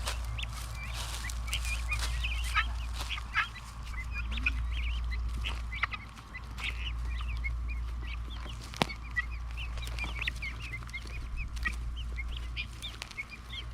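A flock of young guinea fowl (keets) chirping and peeping, with many short high calls overlapping continually, over a steady low rumble.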